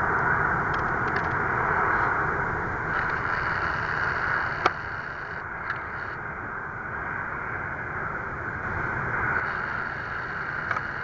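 Airbus A350-941's Rolls-Royce Trent XWB jet engines: a steady, loud rush that eases off slightly, with a few sharp clicks, one about halfway through.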